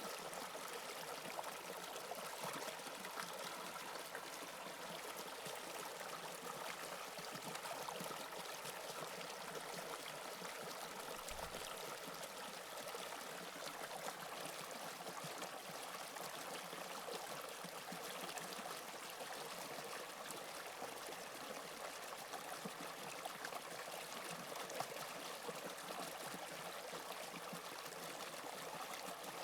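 Steady, even running noise of a subway train.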